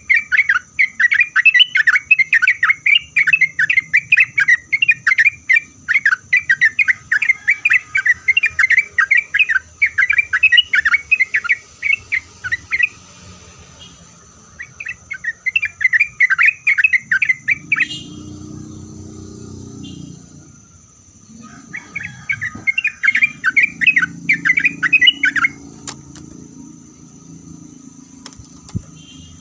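Yellow-vented bulbul singing fast, bubbling chattering phrases in three long bouts, the last stopping about 25 seconds in.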